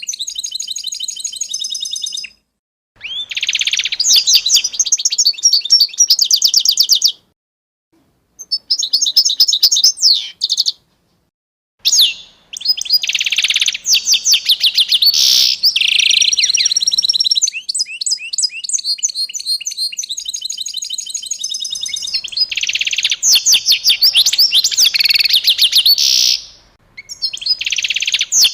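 Songbirds chirping and singing in fast, high, repeated trills and chirps, broken several times by sudden cuts to silence between separate recordings.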